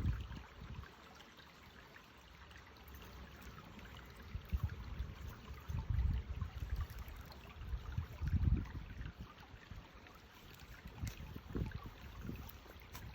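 Stream water running steadily, with several intermittent low rumbles over it.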